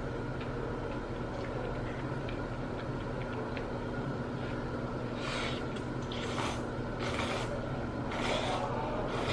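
Steady mechanical hum of a small room, with faint light clicks. From about five seconds in come several short scraping noises.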